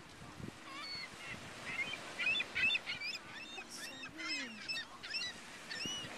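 A flock of seagulls calling, a rush of short, high, overlapping cries that is thickest from about two to five seconds in.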